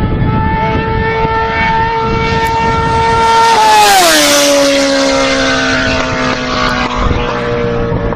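Sport motorcycle engine held at high revs going past, a high steady howl whose pitch drops sharply about three and a half seconds in, at its loudest, then carries on lower as it moves away.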